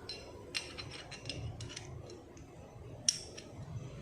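Small metal engine parts clinking and tapping as they are handled: a run of light ticks in the first couple of seconds, then one sharper metallic click about three seconds in.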